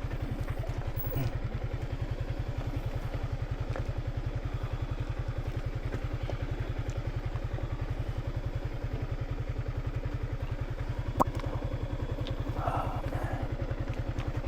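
Small motorcycle engine idling with a steady, even low putter, with one sharp click about eleven seconds in.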